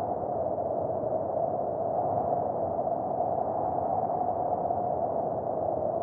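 Steady drone of a car driving, heard from inside the vehicle, its pitch sagging slightly toward the end.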